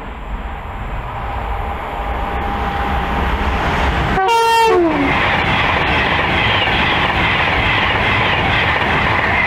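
Class 390 Pendolino electric express approaching at speed, its running noise building, and sounding a short horn blast about four seconds in that drops in pitch at the end. A loud rush of wheels and air follows as the train passes close by.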